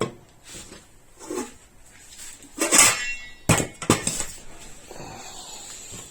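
Kitchenware being handled: a run of knocks and clinks, one about three seconds in with a short metallic ring.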